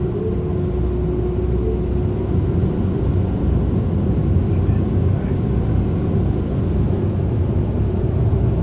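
Ryko Softgloss Maxx car wash's onboard blower dryers running, a loud steady rush of air heard from inside the car being dried. A faint steady tone in the noise fades out about two seconds in.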